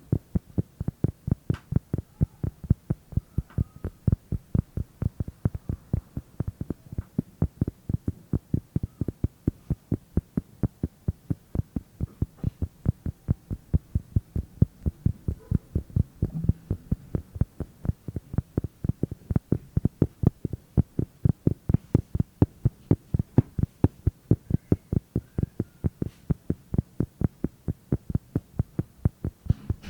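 Rapid, even ASMR tapping: low, dull taps at about four a second.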